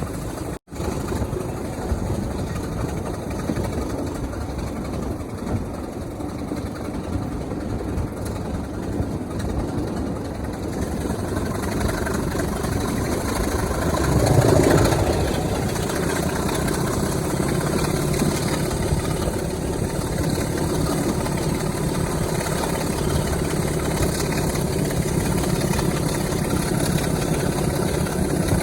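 Diesel locomotive engine running steadily. It breaks off for an instant just after the start, and swells louder for a moment about halfway through.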